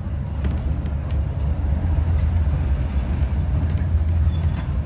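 Steady low rumble of a heritage railway train heard from inside a passenger carriage, with a few light clicks.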